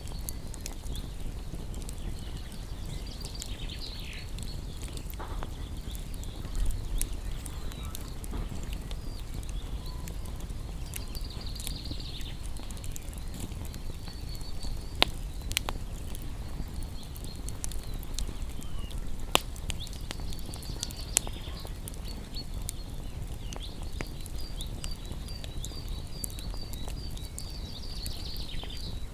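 Small birds chirping and trilling over a crackling wood fire, with a few sharp pops from the fire about halfway through.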